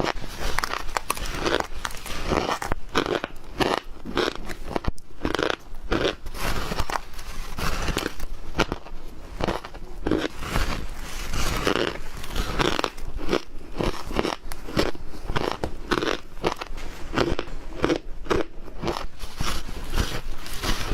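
Ice being bitten and chewed close to the microphone: a continuous run of crunches, several to the second.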